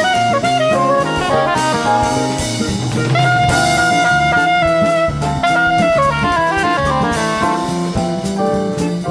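Upbeat jazzy background music: a saxophone-like melody over a steady drum-kit beat.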